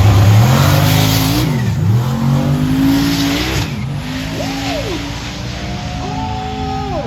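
Car engine revving hard during a burnout, with tires squealing for the first three and a half seconds. After that the squeal stops and the engine is blipped up and down several times.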